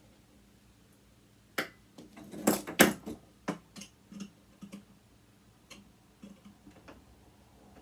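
Irregular sharp clicks and taps of metal parts and hand tools being worked on a sewing machine, the loudest cluster about two and a half to three seconds in, then sparser, fainter ticks.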